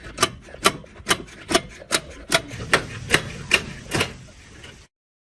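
Rhythmic hand-tool strokes on metal, about two and a half sharp hits a second, cutting off suddenly near the end.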